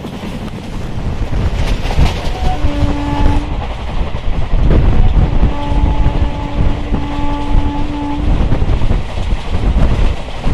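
Passenger train running at speed, wheels rumbling on the rails with wind on the microphone. The locomotive horn sounds twice: a short blast about two and a half seconds in, then a long one of about three seconds from about five seconds in.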